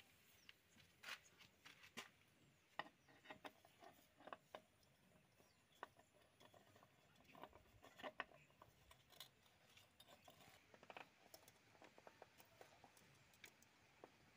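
Faint, irregular clicks and light knocks of small hard objects being handled.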